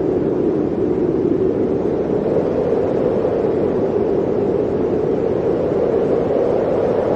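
Blizzard wind blowing steadily: a dense, low rushing noise whose pitch drifts slightly upward near the end.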